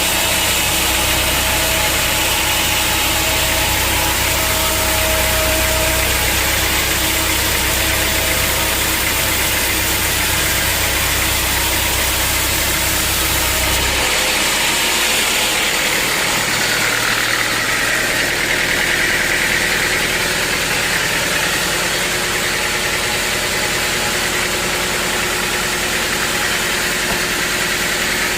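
Sawmill machinery running steadily with a loud engine-like drone. About halfway through the deep rumble drops away abruptly and a higher whine swells for a few seconds.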